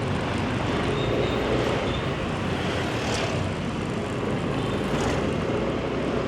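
Motorbike riding in street traffic: steady engine drone and road noise.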